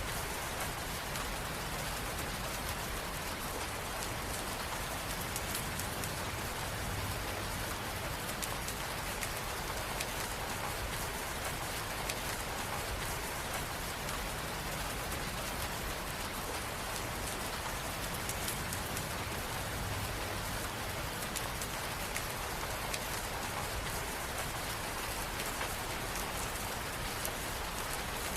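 Steady rain falling and pattering on a surface, with fine drop ticks and a soft low rumble beneath, even throughout.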